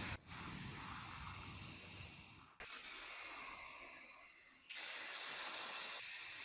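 Pressurised spray hissing in two bursts of about two seconds each, after a quieter stretch of lower hiss.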